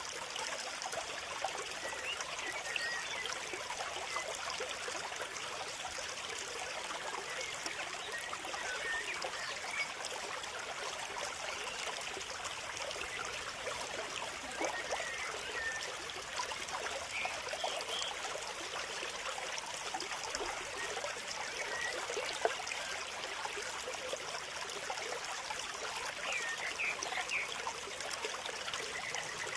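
Steady trickling of running water, with faint chirps of small birds scattered over it.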